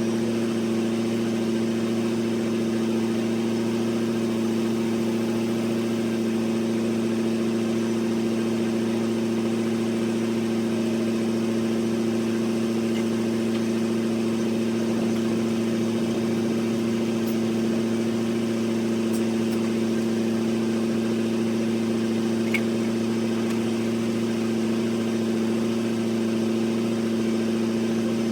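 An engine idling at a perfectly steady speed, a constant hum with no revving.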